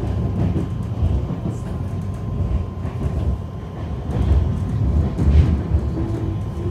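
Passenger train running, heard from inside the carriage: a steady low rumble of the wheels on the rails, with irregular knocks. A steady tone comes in near the end.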